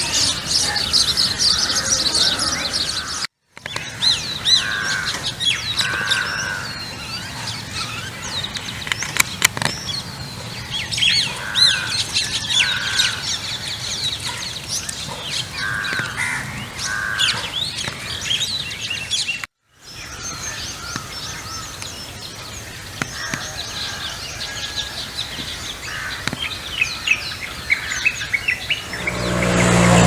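Many birds chirping and calling together in a dense chorus of quick high notes, with a lower two-note call repeating every few seconds. The sound cuts out abruptly twice, for a moment each time.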